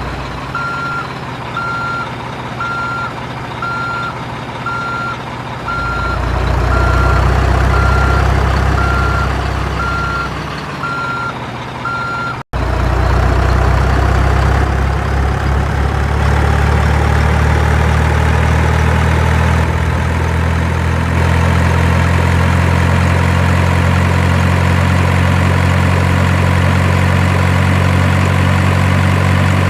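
Truck reversing alarm beeping about once a second over a running engine. After a sudden break about halfway through, the engine sound runs on alone as a steady drone.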